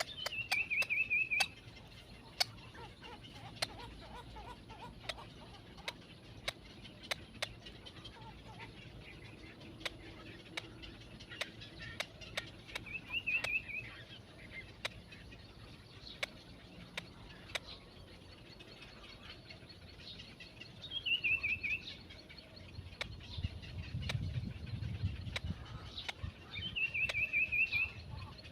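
A bird repeating a short, falling trilled call four times, several seconds apart, with scattered sharp ticks in between and a low rumble shortly before the last call.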